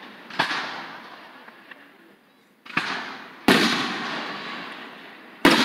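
Fireworks bursting: four sharp booms, each followed by a long echo that dies away over a second or more. The third and fourth are the loudest, and the fourth comes near the end.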